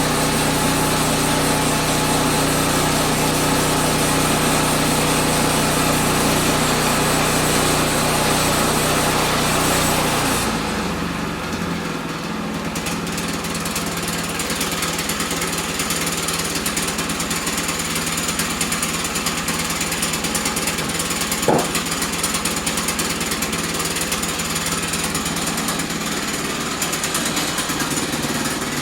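Portable sawmill's small engine running fast and steady, then about ten seconds in dropping to a lower, rattling run that carries on. A single short sharp ping sounds near the end.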